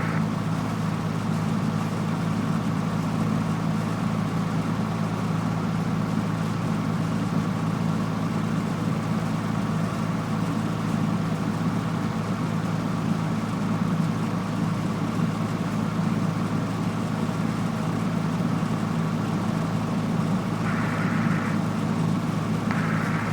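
Steady, even drone of a Cessna 172F's six-cylinder Continental O-300 engine and propeller at low taxi power.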